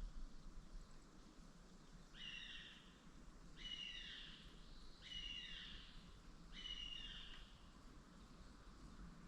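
A bird calling four times, each call under a second long with quick falling notes, about a second and a half apart, over a faint low background rumble.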